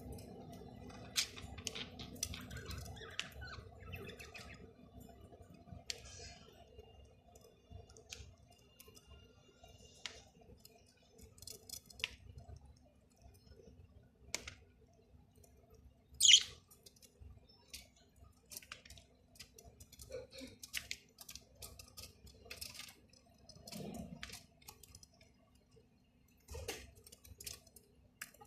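Pet bird pecking and nibbling, with light irregular clicks and a few short chirps; one loud, sharp chirp about sixteen seconds in. A faint steady hum runs underneath.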